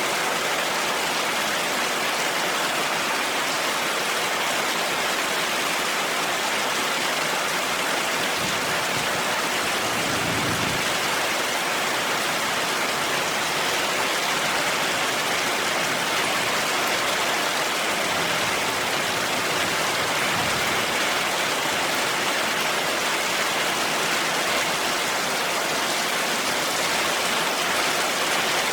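Heavy rain falling steadily, a dense even hiss, with a brief low rumble about a third of the way in.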